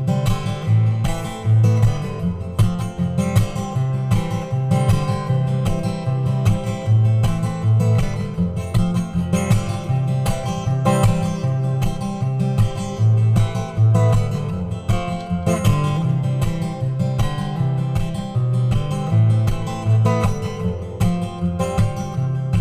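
Acoustic guitar strummed steadily through an instrumental break between sung verses, with low bass notes changing in a regular pattern.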